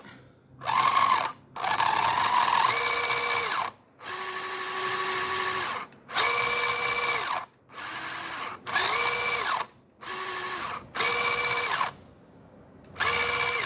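Electric motor and centre gearbox of a 1/24-scale SG Pinecone Forest 2402 RC crawler, run in short bursts that alternate direction. The louder, rougher bursts with a grinding buzz come when driving forward, the sign of a faulty centre gearbox. The quieter bursts in reverse are just the motor whining.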